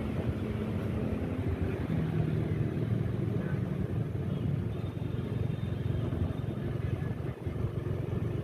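Motorcycle engine running while riding in city traffic, a steady low engine note over road noise, its pitch shifting a little about two seconds in.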